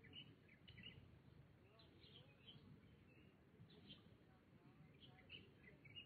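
Faint small birds chirping, with short high calls coming several times a second, over a steady low background rumble.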